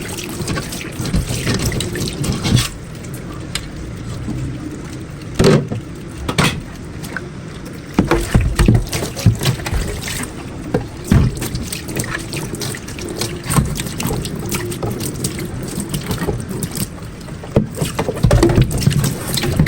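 Water splashing and running during hand washing at a sink, with repeated knocks and clatter of items being handled.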